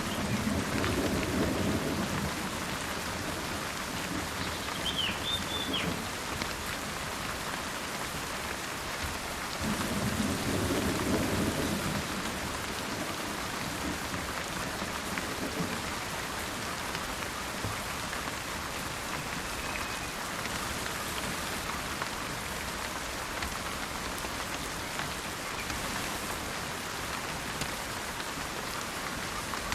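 Steady rain falling, with two low rolls of thunder, one at the start and another about ten seconds in. A bird gives a brief high call around five seconds in.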